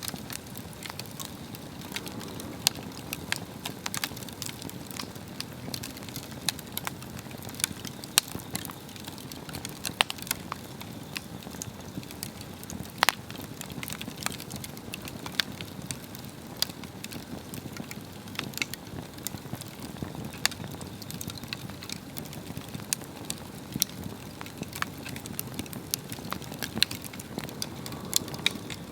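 Swedish torch log fire burning, with a steady low rush of flame and irregular sharp crackles and pops of the wood, a few of them much louder than the rest.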